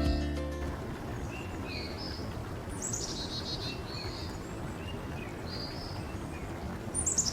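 Wild songbirds calling over a steady outdoor background hiss: scattered short high chirps, and twice a quick run of high notes falling in pitch, about three seconds in and again near the end.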